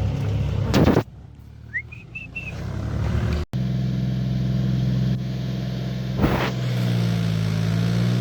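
Tractor engine running steadily with a low, even hum. It is broken by a sudden quieter stretch that holds a few short, high whistle-like chirps, then the engine resumes.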